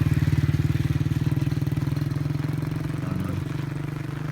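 A motorcycle engine running with a steady low pulsing note, loudest at first and fading gradually as it moves away.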